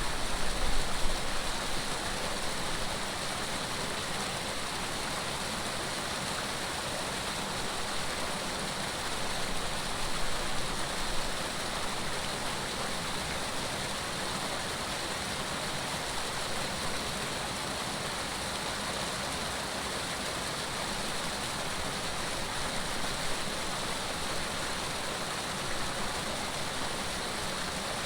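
Flowing water in a stream rushing steadily, an even hiss with no let-up.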